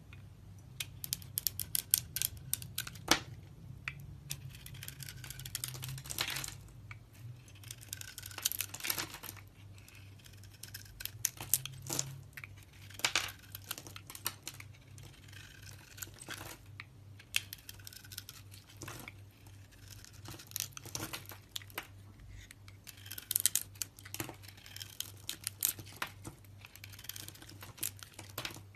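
A knife carving a bar of soap: repeated scraping strokes and crisp crackling clicks as shavings are cut away, with short pauses between bursts. A faint steady low hum lies underneath.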